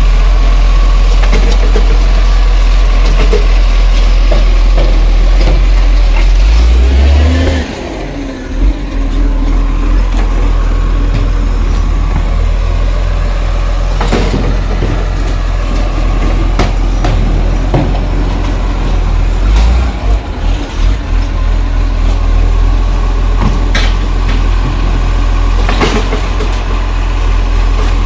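Garbage truck running with a heavy, loud low rumble. The engine note swells briefly about seven seconds in and then drops. A few sharp knocks come later on.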